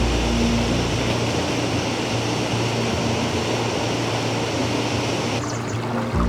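Steady rush of falling water from a waterfall, with low wind rumble on the microphone near the start and again near the end.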